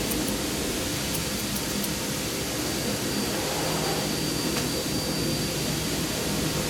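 A steady rushing noise from a running machine, with a thin high whine held throughout.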